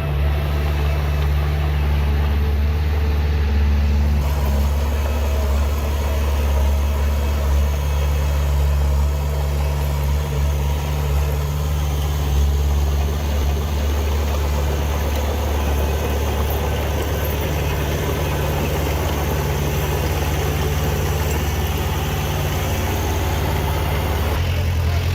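Heavy diesel engine running steadily at low, even revs: a deep, unchanging drone.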